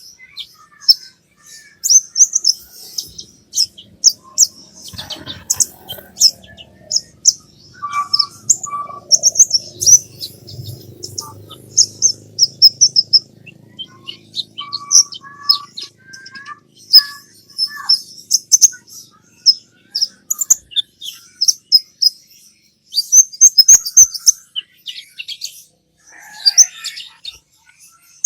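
Brown-throated sunbird (kolibri ninja) singing a rapid, high-pitched chattering song in bursts of twittering phrases, with short pauses between them. This is the lively, full-volume song used to lure pet sunbirds into singing.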